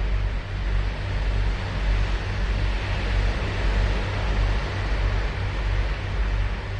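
Ocean surf breaking and washing ashore, a steady rush that swells slightly about halfway through, over a heavy low rumble.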